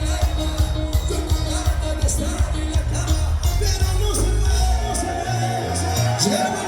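Live band music with singing: a bass line stepping between notes under steady percussion, with a vocal melody over it. The bass drops out briefly a little past five seconds in.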